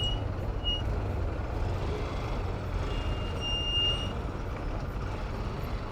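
City street traffic heard from a moving bicycle: a steady rumble of engines and road noise, with wind buffeting the microphone. Short high-pitched tones sound twice near the start and again, longer, about three seconds in.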